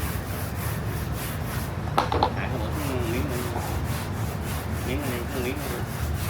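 Rhythmic back-and-forth rubbing strokes, about three a second, over a steady low hum, with a sharp click about two seconds in.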